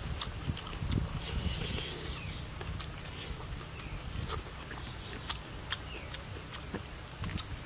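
Close-up chewing and lip-smacking as a person eats pieces of grilled bamboo shoot, with scattered small wet clicks.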